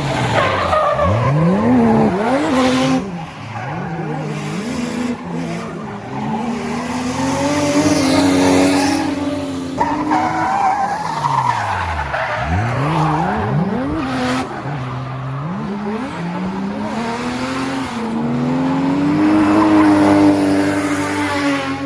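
Drift car engine revving hard, its pitch climbing, holding high and dropping again several times, with tyres squealing and skidding.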